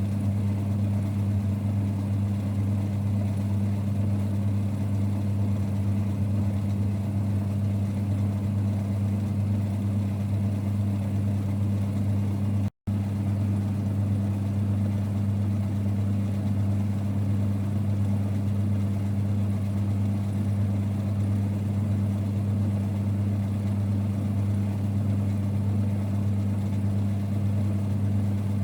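A 1946 Boxford lathe running at a constant speed: an even, low rumble with a steady hum. About halfway through, the sound drops out for an instant.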